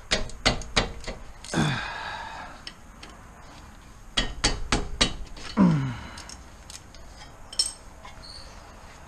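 Ratchet wrench clicking in two quick runs of sharp metallic ticks while a brake bolt is being worked loose. Twice, about a second and a half in and again near six seconds, a short call falls in pitch over it.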